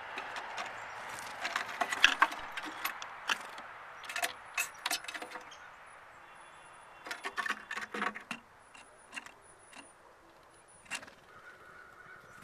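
Activity at a bird feeder: many sharp clicks and taps, in two busy clusters, with several brief, very high thin bird calls. A steady hiss dies away about halfway through.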